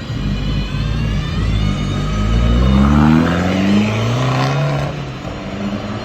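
Aston Martin Valkyrie's V12 accelerating hard, its note climbing in pitch over about two seconds and loudest partway through, then dropping back to a steadier, lower note.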